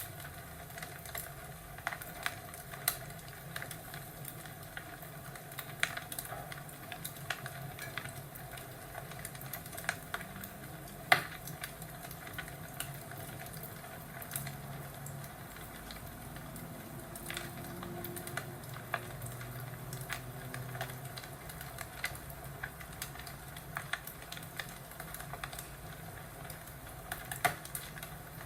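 Fireplace crackling: a steady low hiss with irregular sharp pops and snaps, the loudest about eleven seconds in.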